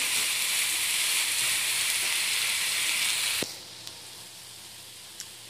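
Instant noodles with tomato sauce sizzling in a non-stick frying pan while being stirred with a spatula. The sizzle drops abruptly to a much quieter hiss about three and a half seconds in.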